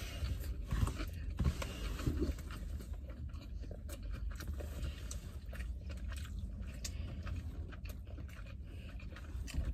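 Close-up chewing and biting of sushi rolls, with soft crunches from the cucumber inside, over a low steady rumble.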